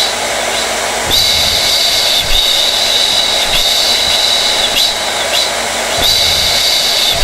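Hair dryer running steadily: a constant rush of air with a high, steady motor whine. There is a slight regular flutter about every second.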